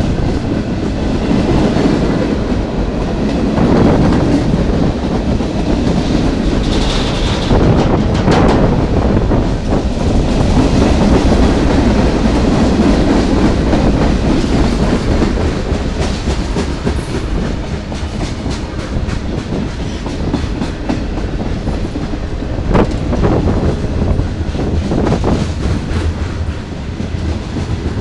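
Freight train cars rolling past close by: a steady, loud rumble of wheels on rail, with runs of sharp clicks as the wheels cross rail joints.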